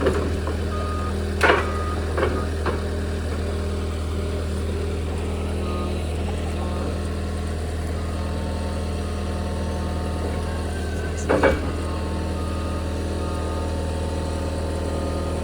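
John Deere 325G compact track loader's diesel engine running steadily while its backup alarm beeps on and off as it reverses. Sharp knocks come about a second and a half in, twice more a second later, and once about eleven seconds in.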